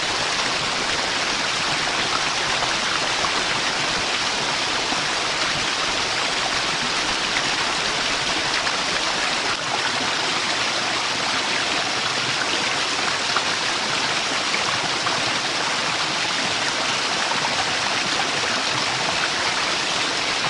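Waterfall rushing: falling water making a steady, even hiss that does not change.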